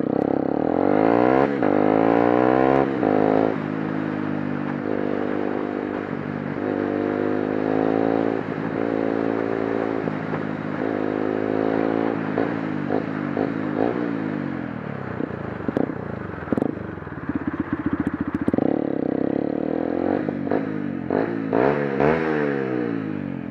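Motorcycle engine accelerating hard through the gears, its pitch climbing and dropping back at each upshift. It eases off twice, the pitch falling, and there are a few clicks and clatters in the middle.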